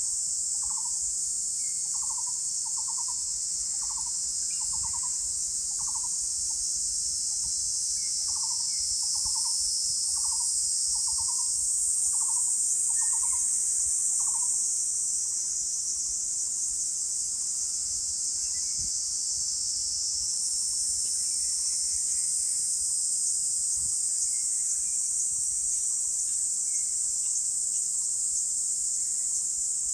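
A bird gives a series of short, trilled hoots, about one a second, which stop about halfway through. A loud, steady, shrill chorus of insects runs underneath, and in its second half it takes on a pulsing beat of about one throb a second.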